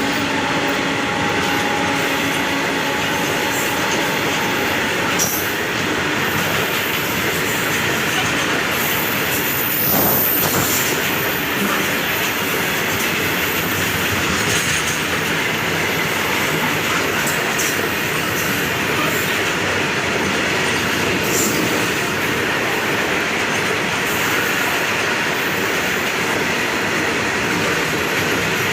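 The last of an Indian Railways WAG-9 locomotive's horn, a chord of steady tones, dies away over the first few seconds. Then the train runs past: a loud, steady rush of steel wheels on the rails with clickety-clack.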